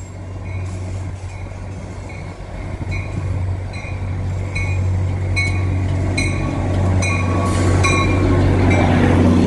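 NJ Transit diesel commuter train approaching and pulling past: a steady low engine drone grows louder throughout, with a bell ringing about once every two-thirds of a second. Wheel and rail noise swells as the locomotive passes close near the end.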